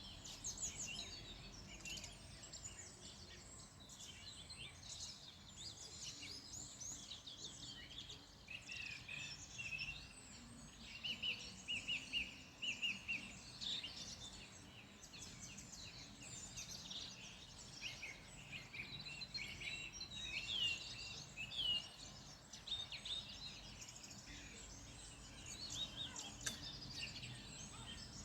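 Several songbirds singing and chirping together, a dense chorus of quick high notes and trills, over a faint steady low background noise.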